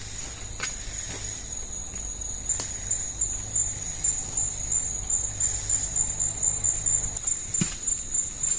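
Forest insects buzzing in a steady high-pitched chorus, pulsing rhythmically from about two seconds in, over a low hum that stops near the end, with a few light clicks.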